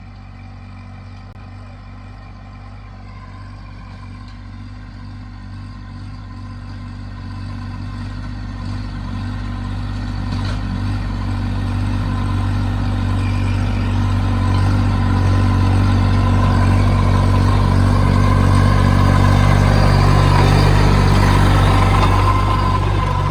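The diesel engine of a 24 hp B2441 compact tractor runs at a steady pitch. It grows steadily louder over about twenty seconds, then eases off slightly near the end.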